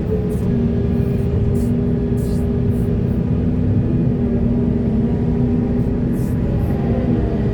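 Heavy diesel earthmoving machinery running steadily at working revs, with a constant engine drone and a deep rumble. Short high bursts of noise come and go over it.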